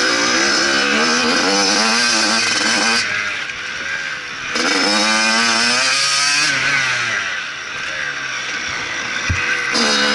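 Motocross bike engine revving under throttle. The throttle is shut off about three seconds in, then the revs climb again, and it eases off once more around seven seconds before picking up near the end.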